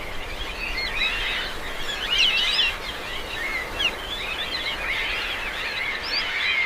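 Many birds chirping and calling at once, a dense chorus of short, quick pitch glides over a steady hiss of background noise; it cuts off suddenly at the end.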